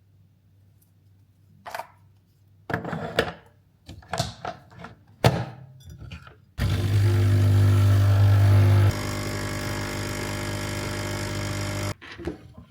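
A few kitchen knocks and clatters, then a small electric kitchen appliance's motor switched on, running with a steady low hum for about five seconds, dropping in level partway through and cutting off suddenly.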